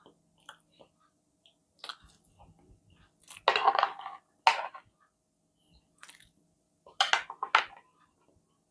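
A person biting and chewing crunchy food in several short crunching bursts, the loudest a few seconds in and again near the end.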